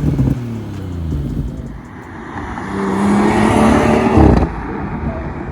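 Exhaust note of a BMW 440i's turbocharged B58 inline-six through a Dinan freeflow exhaust, revving. The pitch falls in the first second, climbs again for nearly two seconds, and drops off suddenly about four seconds in, settling to a quieter steady run.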